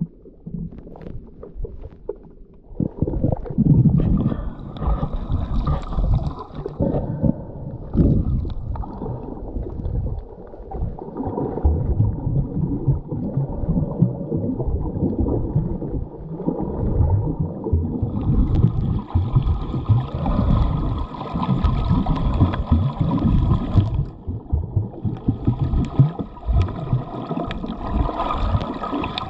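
Underwater sound of a scuba dive: irregular low rumbling and gurgling of a diver's exhaust bubbles. For several seconds past the middle, and again near the end, a hiss with a faint whine rises above it.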